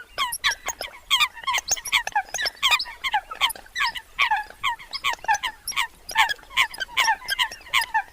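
A flock of Eurasian coots calling: a dense, continuous chatter of short, sharp, overlapping calls, several every second, each a quick falling note.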